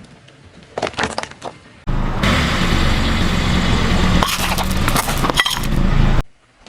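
A car rolling over objects and crushing them: a few sharp clicks, then a steady low rumble of engine and tyres with a run of loud cracks and crunches, cut off suddenly near the end.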